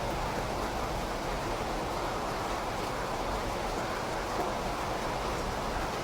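Steady rain: an even, unbroken hiss with a low rumble underneath.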